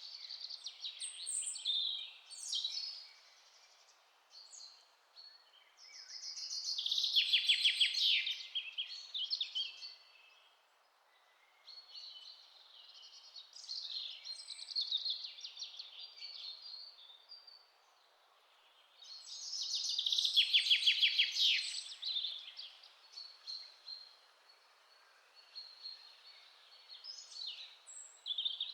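Wild songbirds singing: a loud, rapid trilled song of about three seconds comes twice, roughly twelve seconds apart, with shorter high chirps and calls between, over a faint steady hiss.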